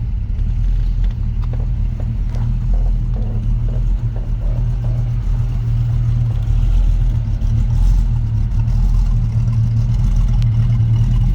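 A 1964½ Ford Mustang's engine idling with a steady low rumble, its idle a hair low in the owner's judgement. A faint, even ticking runs over it from about a second and a half in to about five seconds in.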